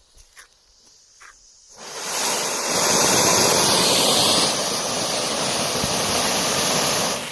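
Homemade titanium firework fountain igniting about two seconds in and spraying with a loud, steady hiss that eases slightly midway, then drops off sharply near the end.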